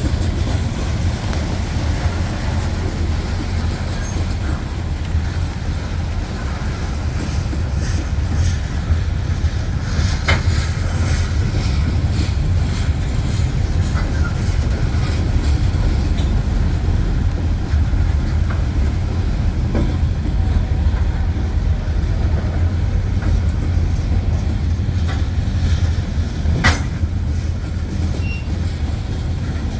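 Freight train rolling past at close range: a steady heavy rumble of cars on the rails, with a few sharp metallic clanks scattered through.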